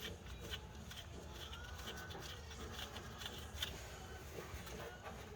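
Faint, irregular light metallic clicks, a few a second, from hand tools running flywheel bolts in.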